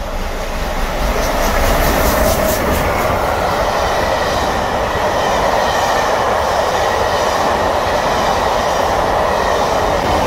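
A steam-hauled passenger train passes close by at speed: a long rake of coaches with their wheels running loudly and steadily on the rails.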